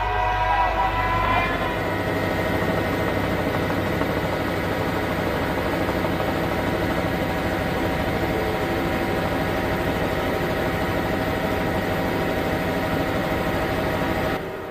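Formula One car engine noise at high revs: a steady, high-pitched drone of several held tones. The tones rise briefly at the start, and the sound drops off sharply at the very end.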